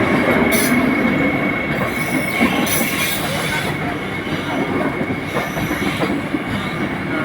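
Vande Bharat express train running on the rails: a loud, steady rumble with a thin, steady high-pitched tone above it.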